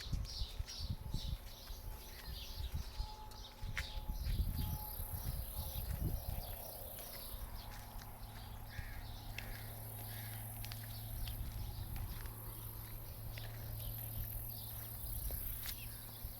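Small birds chirping in quick repeated high notes for the first several seconds, with a steady high insect hiss that comes in about four seconds in. Low thumps and rumble run under the first six seconds.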